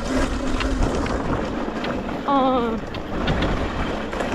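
Wind rushing over the microphone while riding an electric dirt bike on a trail. A short wavering tone, voice-like, comes about two seconds in.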